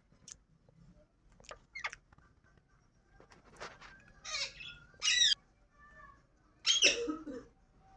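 Indian ringneck parrot giving a scattering of short, squeaky chirps and squawks, several falling in pitch, the loudest about four to five seconds in and again near seven seconds.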